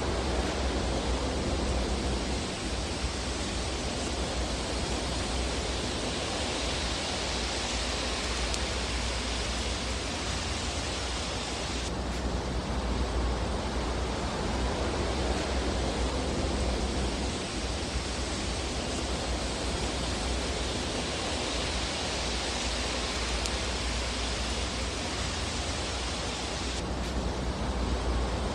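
Fireplace fire ambience: a steady rushing hiss over a low rumble, with no distinct crackles or pops standing out. The texture changes abruptly about twelve seconds in and again near the end.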